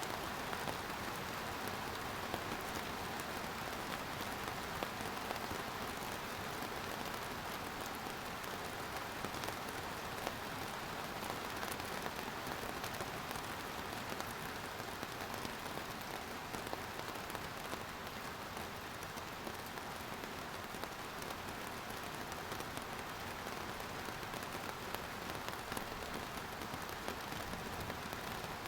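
Steady rain falling on surfaces: a continuous even hiss of many drops, with fine pattering ticks.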